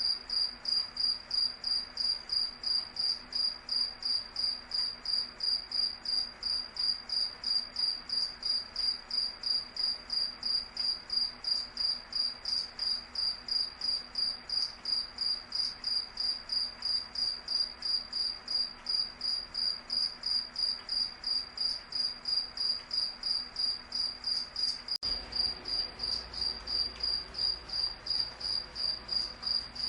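Cricket chirping steadily in an even, high-pitched rhythm of about three chirps a second.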